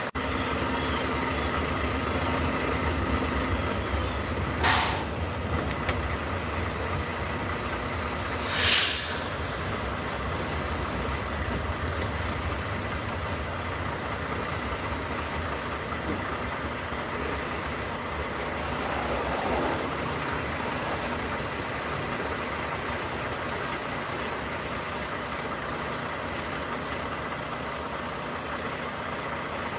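Semi truck's diesel engine running steadily with a low rumble, with two short hisses of released air about five and nine seconds in, the second louder.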